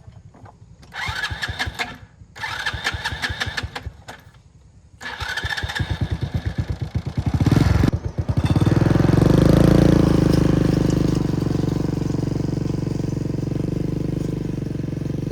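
Small single-cylinder motorcycle engine of a homemade tiller being cranked in three short bursts. It catches on the third, about eight seconds in, then runs steadily.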